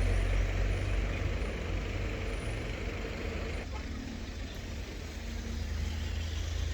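Riding sound from a BMW G 310 GS motorcycle: a steady low wind rumble on the microphone over engine and traffic noise. About three and a half seconds in the sound changes abruptly and a faint steady engine hum comes through.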